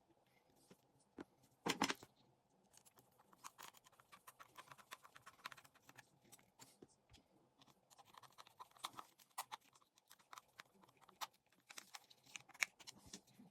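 Faint handling noises of a Decathlon fishing reel being worked on: many small clicks, taps and scrapes of metal and plastic parts, with a louder clatter about two seconds in.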